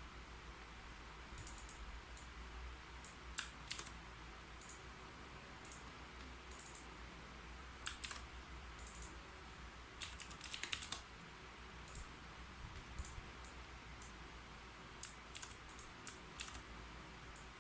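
Typing on a keyboard: irregular short runs of key clicks with pauses between them, over a faint low hum.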